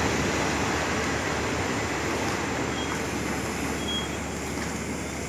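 Steady running noise of a passenger train along a station platform, slowly fading as it eases to a stop. Two brief faint high squeaks come through about three and four seconds in.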